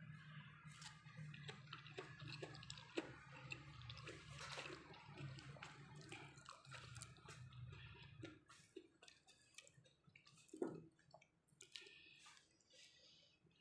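Faint wet eating sounds: chewing and mouth clicks of someone eating blanched sweet potato leaves dipped in sambal. A low hum stops about eight seconds in.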